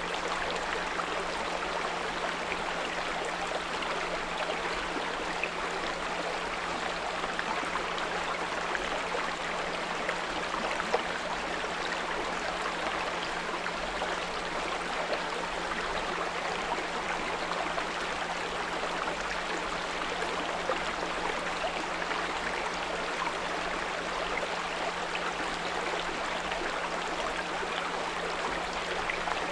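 A small brook babbling steadily, with a steady low 174 Hz pure tone held underneath.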